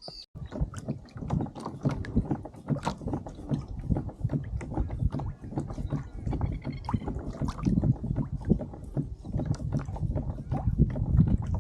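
Water sloshing and splashing against a pedal kayak's hull as it moves, with many small irregular knocks and splashes over a low rumble.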